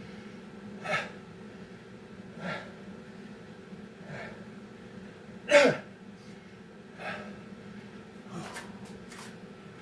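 A man breathing hard and gasping, out of breath after a timed set of six-count calisthenics reps, a heavy breath about every second and a half. One much louder exhale with a voice that drops in pitch comes about halfway through.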